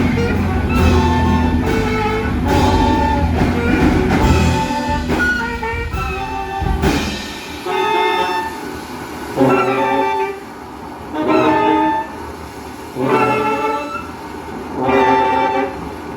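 Improvising ensemble playing live: a dense, pulsing texture with a heavy bass line, then, from about seven seconds in, about five loud sustained chords, each around a second long, repeated every second and a half or so, which sound much like a train horn.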